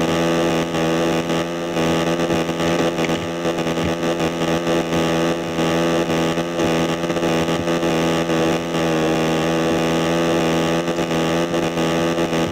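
Motorcycle engine running at a steady pitch, its revs holding constant.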